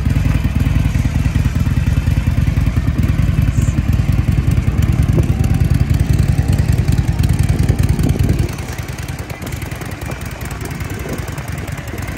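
Motorcycle engine running with a loud low rumble, which drops noticeably quieter about two-thirds of the way through.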